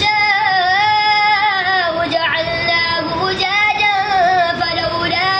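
Quran recitation: a single high-pitched voice chanting in long, ornamented held notes.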